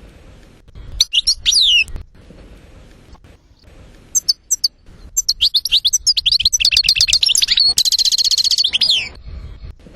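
European goldfinch singing in separate phrases: a short twittering phrase about a second in, a long run of rapid high notes in the middle, and a fast trill near the end.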